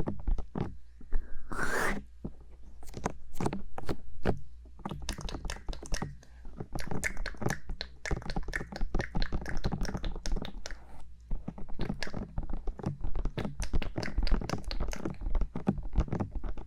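Bare fingertips tapping and rubbing rapidly on the silicone ears of a 3Dio binaural microphone: a dense, uneven run of close-up taps with scraping rubs, and a brief rushing brush over the ear about two seconds in.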